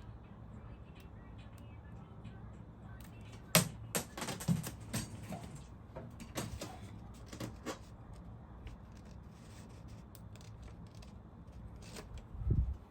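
Small sharp clicks and taps of metal parts and tools being handled while a cover with its new seal is refitted on a sewing machine. There is a quick run of them for a few seconds, then lighter ticks, and a dull bump near the end.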